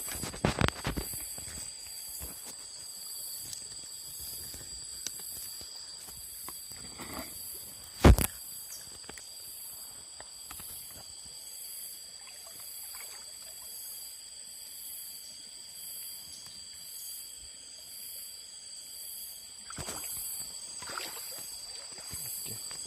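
Night insects chirring steadily, with a high pulsing trill at about one beat a second. Over them come rustles and knocks from handling gear while a baited set line is put out, with a cluster of knocks near the start and one sharp loud knock about eight seconds in.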